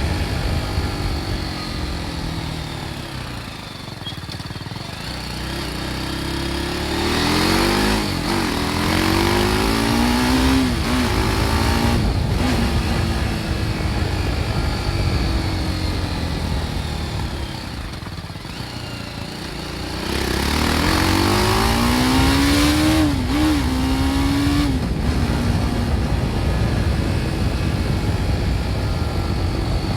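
BMW G310 R's single-cylinder engine through its original exhaust, easing off with the note falling, then pulling up through the gears with a brief dip at each shift and settling into a steady cruise. The same pattern comes twice: an easing off, a climb through the gears and a steady run.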